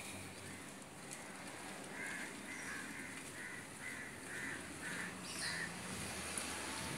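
A bird calling: a run of about eight repeated calls, roughly two a second, starting about two seconds in, over a faint steady low hum.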